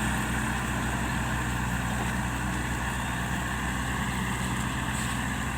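Heavy diesel engine running at a steady speed, with an even low hum that neither rises nor falls.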